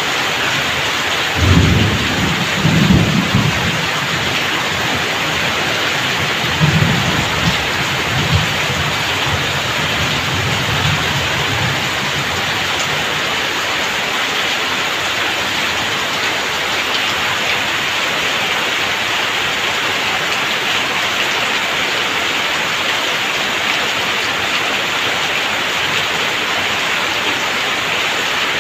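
Heavy rain pouring steadily off the roof edges and splashing onto wet ground, with rumbles of thunder about two seconds in and again from about seven to eleven seconds in.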